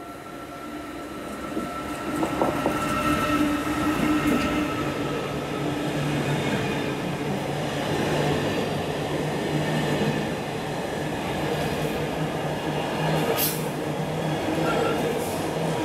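Freight train passing at speed: the locomotive grows louder over the first two seconds as it arrives, then the intermodal container wagons run past with a steady rumble of wheels on rails. A sharp click comes about thirteen seconds in.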